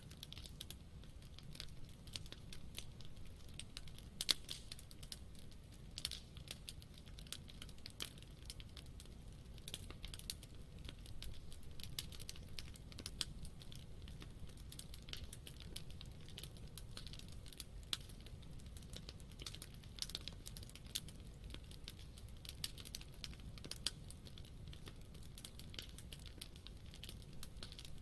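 Wood campfire crackling: irregular sharp pops and snaps, several a second, over a low steady hush of the burning fire.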